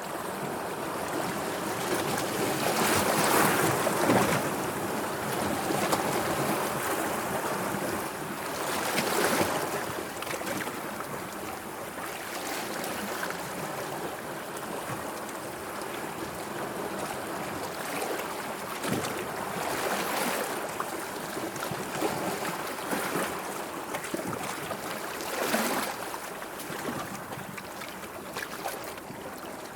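Sea waves washing in, a steady wash of water that swells louder several times as bigger waves break or surge.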